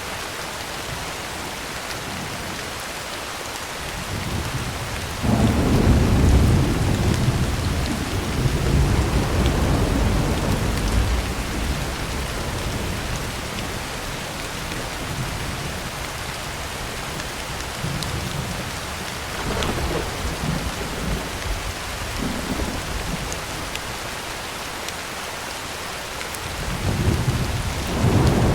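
Heavy rain falling on a tin roof as a steady hiss, with thunder. A long peal of thunder comes in about five seconds in and fades over several seconds, lighter rumbles follow around twenty seconds in, and another peal builds near the end.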